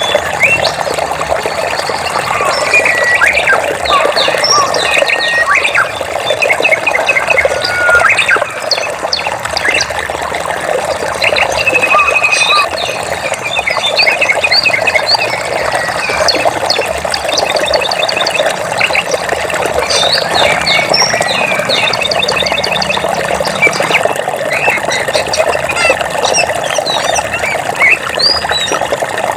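Steadily running water with many birds chirping and trilling over it throughout, in short calls, rapid trills and gliding whistles.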